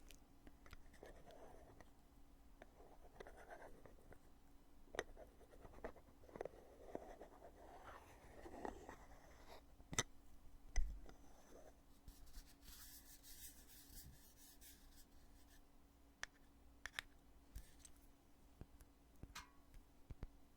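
The lid of a foundation container being handled close to the microphone: soft rubbing and scraping with scattered small clicks. About halfway through comes a sharp click followed by a low thump, the loudest moment, then a brief high rustle and more light ticks.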